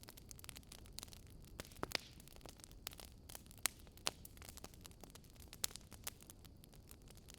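Wood fire crackling, with irregular sharp pops and snaps over a faint low hiss.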